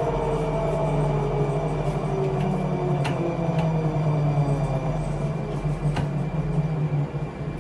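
Rusich-type (81-740/741) metro train's traction drive whining down in pitch as the train brakes into a station, over a steady low hum from the running gear. A few sharp clicks are heard at about three, three and a half and six seconds in.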